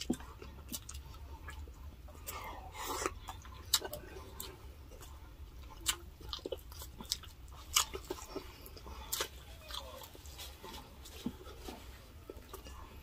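Close-miked eating sounds: chewing, lip smacks and irregular sharp wet mouth clicks, over a low steady hum.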